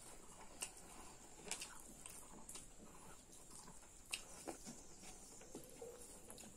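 Soft mouth sounds of eating pork curry and rice by hand: quiet chewing with a scattering of short wet clicks and lip smacks.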